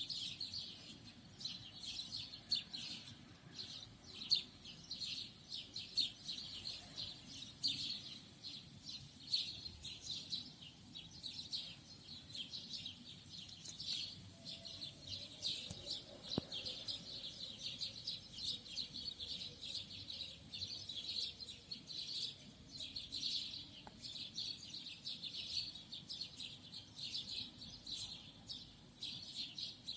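Birds singing in a dense, continuous chorus of rapid high chirps and trills, many overlapping, with no pause.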